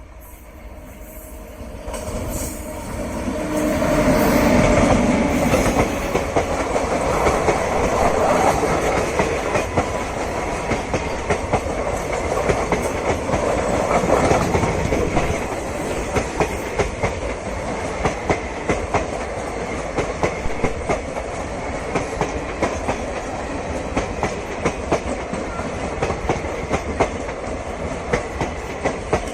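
Train passing close by on the Indian Railways main line: the rumble builds quickly over the first few seconds, then the coaches' wheels clatter over rail joints in a regular clickety-clack.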